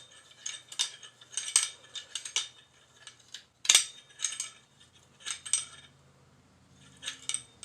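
Hand tools clinking against metal parts of a motorcycle's rear brake assembly as a fastener is tightened: about a dozen short, sharp metallic clicks at uneven intervals.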